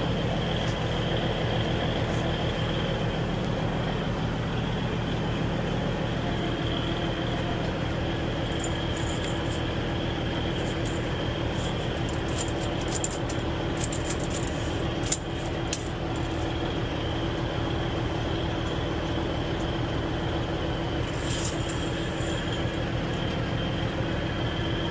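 Steady mechanical drone of vehicles running nearby, with a constant low hum and a thin high whine. Light clicks and taps come in a cluster about halfway through, and a few more near the end.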